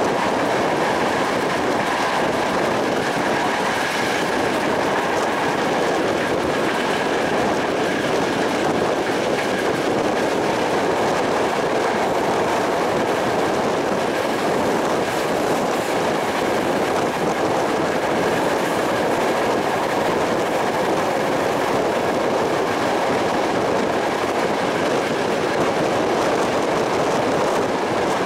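Train running along the line, heard from a carriage window: a steady rush of wheels on rail and passing air, with a faint steady high tone.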